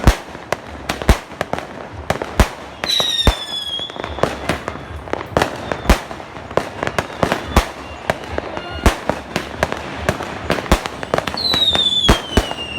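Fireworks going off: many sharp bangs at irregular intervals, with a falling whistle twice, once about three seconds in and again near the end.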